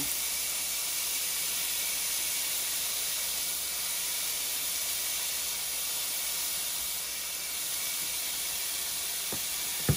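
Chicken pieces frying in rendered sausage fat in a nonstick pan over medium-low heat: a steady, even sizzle. A short knock comes near the end.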